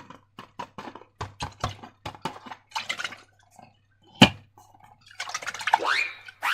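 Slime being squished and worked by hand: a run of short, sticky clicking squelches, with one loud snap about four seconds in and a rising rubbery squeak near the end.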